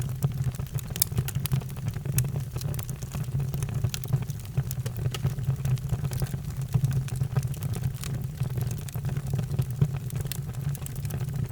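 Wood fire in a fireplace crackling, with frequent irregular small pops over a steady low rumble.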